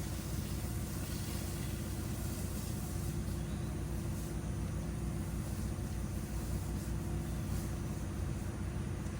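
A pressure washer's engine running at a steady speed, a low, even drone.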